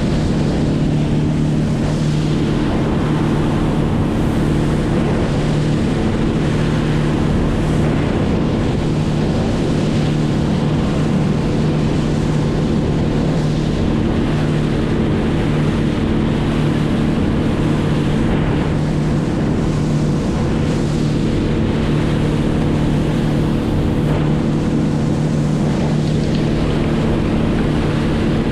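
An engine running steadily at one constant speed, with a constant rush of wind and water noise over it.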